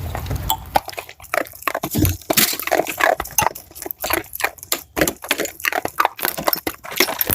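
An animal making many short, irregular noises one after another.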